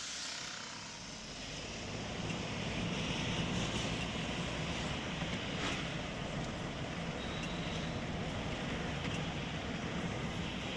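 Steady rumble and road noise of a running motor vehicle, with a constant low hum.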